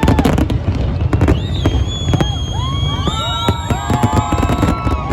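Fireworks going off: rapid bangs and crackling over a steady low rumble, with several whistles gliding up and down in pitch from just over a second in.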